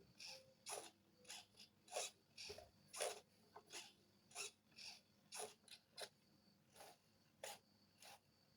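Servos of an old RC airplane buzzing briefly as they are driven, about fifteen short, quiet bursts of movement with pauses between them. They work, but not as well as they should.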